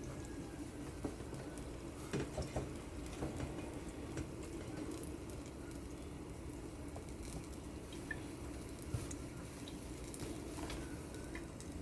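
Faint kitchen handling: a few light knocks and clicks as raw chicken pieces are put into a bowl of seasoned flour and turned to coat them, over a steady low background hum.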